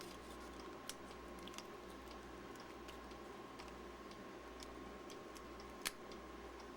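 A few faint, sharp little clicks of NiCd battery cells and their metal tabs being handled, the clearest about a second in and again near the end, over a steady low hum and a thin steady tone.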